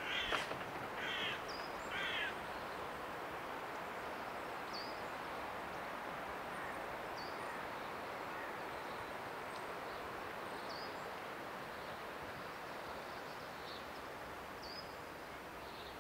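A bird gives three harsh cawing calls in the first two seconds over a steady rushing outdoor noise. A small bird chirps faintly now and then.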